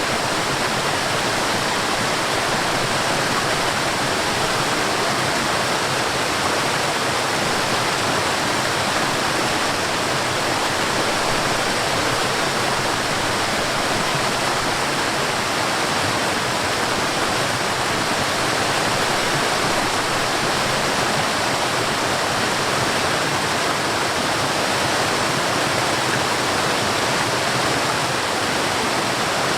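A forest waterfall: water falling and splashing in a steady, even rush with no change in level.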